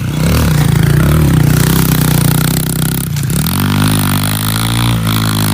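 Dirt bike engine running close by, its pitch rising and falling with blips of the throttle for about three seconds, then settling to a steadier idle.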